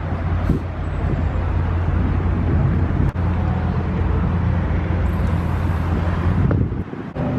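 A vehicle engine idling with a steady low rumble, broken by a brief dip about three seconds in and another near the end.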